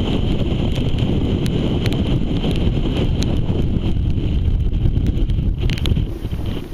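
Strong wind buffeting the microphone: a constant heavy low rumble with scattered crackles, easing slightly near the end.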